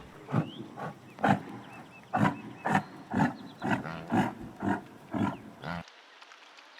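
Lion giving a series of about a dozen short, evenly spaced grunts, roughly two a second, cut off abruptly shortly before the end.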